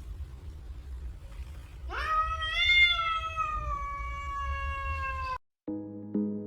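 A cat's single long, drawn-out meow over a low rumble: it starts about two seconds in, rises sharply at the start, then slides slowly down in pitch for about three seconds. The sound cuts off and music starts near the end.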